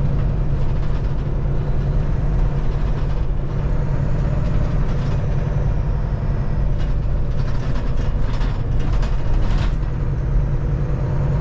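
Semi-truck's diesel engine and road noise heard from inside the cab while driving: a steady low rumble, with a cluster of short clicks about seven to ten seconds in.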